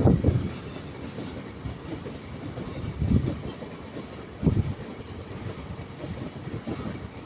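Freight train rolling past, a steady rumble with its wagon wheels knocking over rail joints now and then, most clearly about three and four and a half seconds in.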